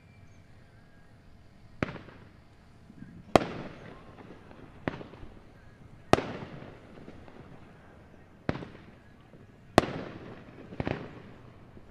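Fireworks going off in about seven separate bangs, one every second or two, each trailing off in an echoing tail.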